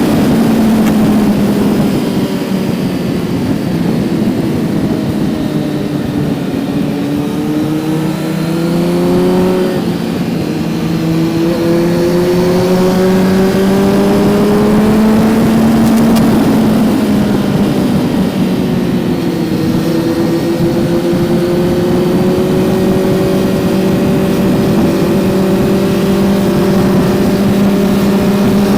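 Kawasaki Z900's inline-four engine under way, its note climbing in long rising sweeps with drops between them as the rider shifts or rolls off, the longest climb in the last third.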